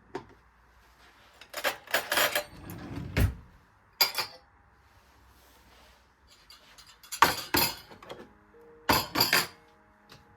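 Kitchen clatter: glass and dishes clinking and knocking in several short bursts, with a heavier knock about three seconds in. Soft piano music comes in near the end.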